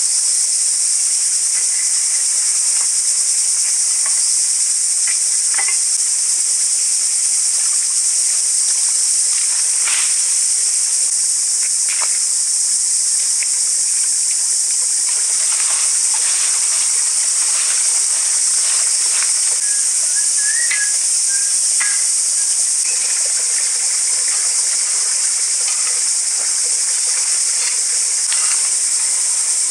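Outdoor forest ambience dominated by a steady, high-pitched hiss, with scattered light knocks and a brief chirp about twenty seconds in.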